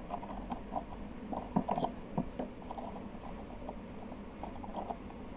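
Small plastic parts of a hair trimmer being handled and pushed into place with a pointed tool: scattered light clicks, taps and scrapes.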